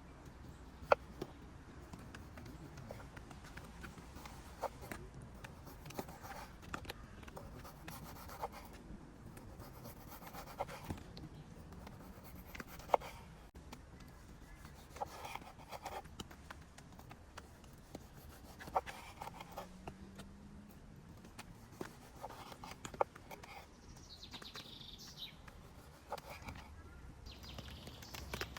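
Soft rubbing and scraping with scattered light taps and clicks, and a few faint bird chirps near the end.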